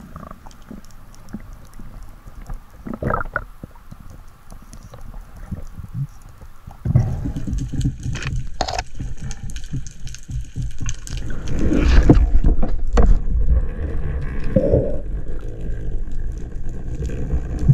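Water noise and bubbling on an underwater camera's microphone during a spearfishing dive. Scattered faint clicks give way, about seven seconds in, to a louder low rushing that stays to the end, with a few sharp clicks in it.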